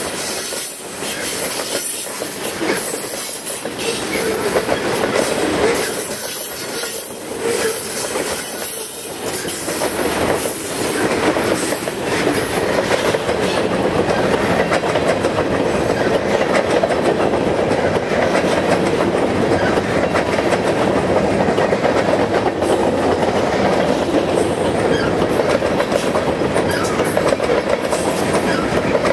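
Freight cars (open-top and covered hoppers) of a New York, Susquehanna & Western freight train rolling past close by: a steady rumble of steel wheels with clickety-clack over the rail joints, growing louder about ten to twelve seconds in.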